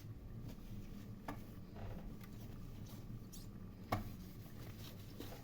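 Scattered light clicks and taps of objects being handled, with one sharper click about four seconds in, over a low steady hum.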